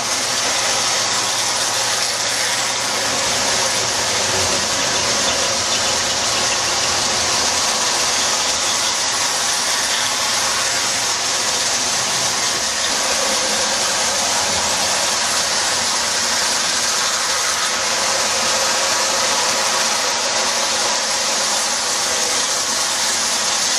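Marx 1666 toy locomotive pulling a string of tinplate passenger coaches around the track: a steady whir of the electric motor and wheels running on the metal rails.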